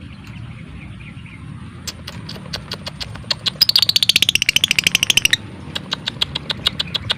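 Lovebird calling: scattered sharp ticking notes build into a loud, rapid rattling chatter of about fifteen pulses a second that lasts about two seconds, then fall back to spaced ticks. This is the ticking 'ngetik' and long chattering 'ngekek' that lovebird keepers play as a training lure.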